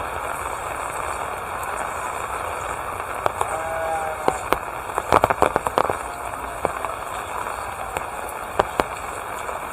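Steady rain falling, with a cluster of sharp taps and clicks about halfway through and two more near the end, and a short faint call a little after three seconds in.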